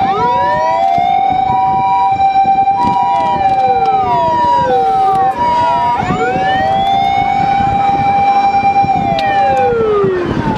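Several fire engine sirens wailing at once, each rising and falling and overlapping the others, with an ambulance's two-note hi-lo siren alternating through the first half.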